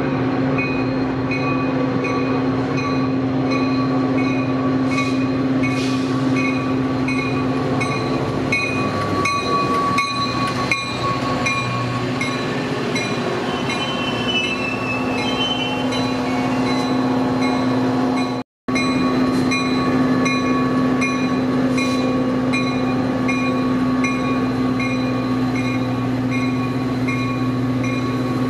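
Metra push-pull commuter train passing at a station: a steady diesel drone from the locomotive and the rumble of the bilevel cars, with a bell ringing about one and a half strokes a second throughout. A brief squeal comes about halfway through, and the sound cuts out for an instant a little after that.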